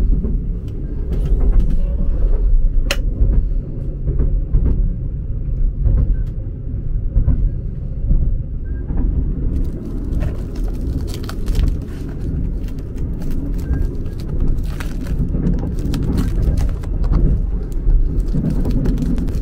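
Sleeper train carriage running, a steady low rumble heard from inside the cabin. From about ten seconds in comes the crinkle and crackle of plastic cling film being peeled off a boxed meal tray.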